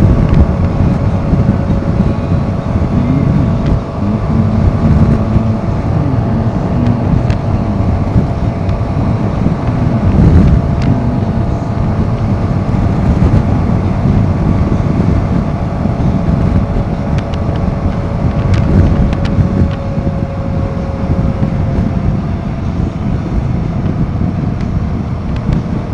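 Royal Enfield Himalayan 450's single-cylinder engine running at a steady cruise while the motorcycle is ridden, with heavy wind buffeting on the helmet or bike microphone.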